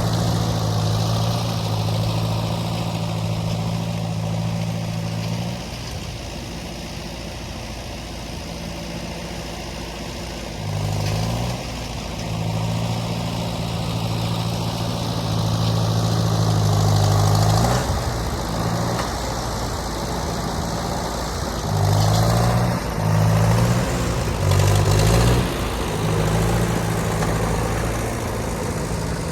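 Ford N-series half-track tractor's four-cylinder flathead engine running under load, its note dropping off about five seconds in and then surging in several short bursts in the second half as the throttle is worked.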